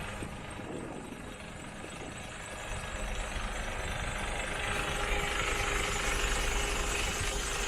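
Mercedes Actros 2545's straight-six diesel engine idling steadily, growing louder about halfway through.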